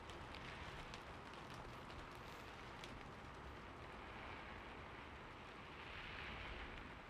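Steady rain falling, with a soft, even hiss and scattered light drop ticks, swelling a little about six seconds in.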